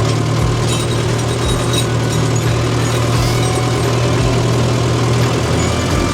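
Tractor diesel engine running steadily at a constant low pitch, with a few faint clicks and rattles in the first couple of seconds.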